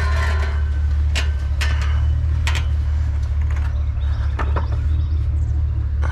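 Idling vehicle engine giving a steady low rumble, with several sharp knocks and clatters of scrap being handled.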